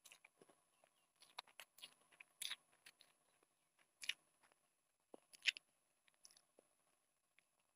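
Close-up chewing of a mouthful of instant noodles: soft, irregular wet mouth clicks, with a few louder sharp clicks.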